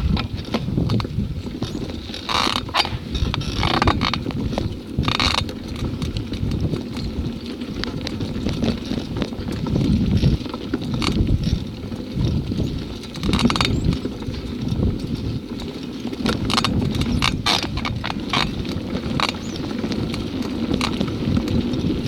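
Bicycle being ridden: a steady low rumble of wind and tyres on the microphone, with frequent irregular clicks and knocks from the bike rattling.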